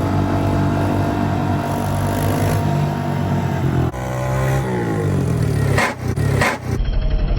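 Motorcycle engine running at a steady speed, then its pitch falls as it slows. A few sharp knocks come about six seconds in.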